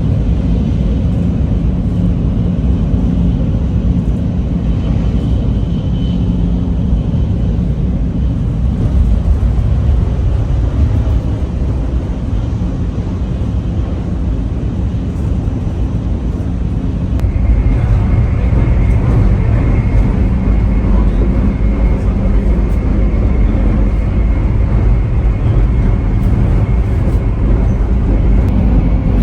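Steady rumble of a moving vehicle heard from inside, with a thin high whine over it that shifts to a lower, stronger pitch about two-thirds of the way through.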